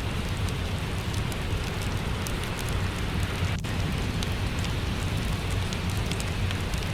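Steady rain hiss with a low rumble, mixed with the irregular snaps and pops of a crackling wood fire.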